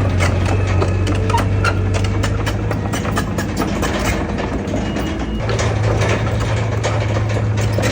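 Heavy diesel engine of earthmoving machinery running, with rapid short metallic clicks throughout. Its steady low note weakens for a few seconds in the middle, then comes back.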